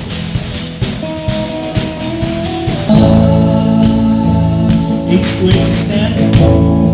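Church worship band playing, with singing over shaken percussion keeping time. About three seconds in, the full band comes in louder with bass and sustained chords.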